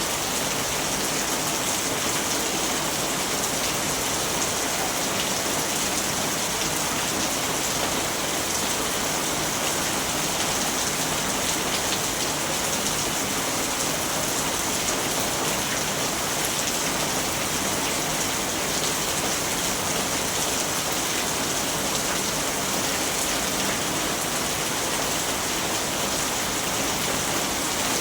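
Steady, heavy rainfall, an even hiss of many drops pattering on a surface, with no thunder.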